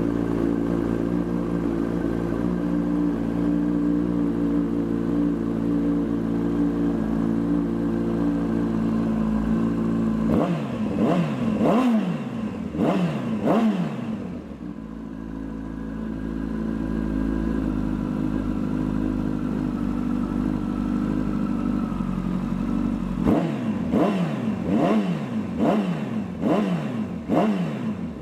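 An engine idling steadily, then revved in a run of quick blips, each rising and falling in pitch, about ten seconds in. It settles back to idle and is blipped again in another run near the end.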